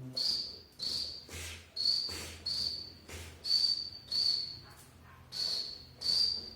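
Cricket chirping: eight short, high chirps at uneven spacing, about one a second.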